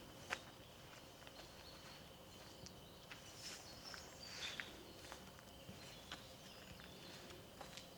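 Faint footsteps of a walker on a forest trail: short soft crunches at irregular intervals over quiet outdoor background.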